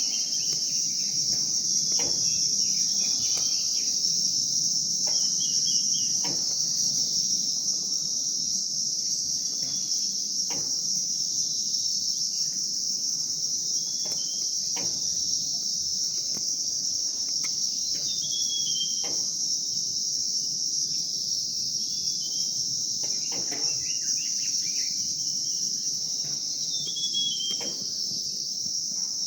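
Steady high-pitched drone of insects, with birds chirping over it in short trills and a few brief falling calls.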